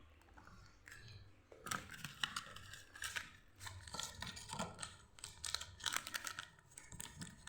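Plastic food packaging being handled, crinkling and tearing in a rapid run of crackles and small clicks that starts about a second and a half in.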